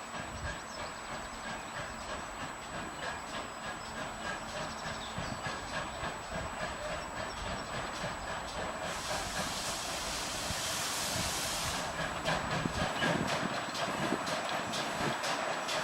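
GWR 57xx-class pannier tank steam locomotive working, its exhaust beats coming in a regular rhythm and growing louder toward the end. About nine seconds in, steam hisses for around three seconds.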